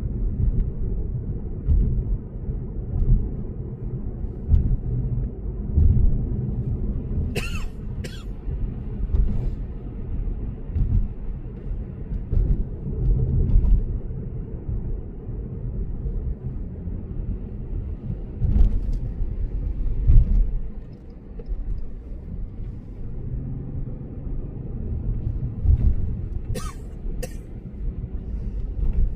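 Low, steady road and tyre rumble inside the cabin of a Lexus GS450h at expressway speed. A few sharp knocks cut through it, two of them in pairs about half a second apart.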